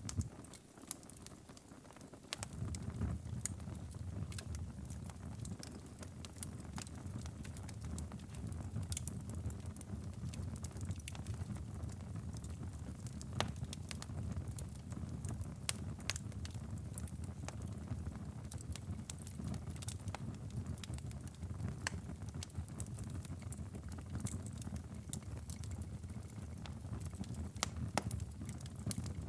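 Wood fire crackling in a fireplace, with frequent sharp, irregular pops over a steady low rumble. The rumble drops away for about two seconds at the start, then returns.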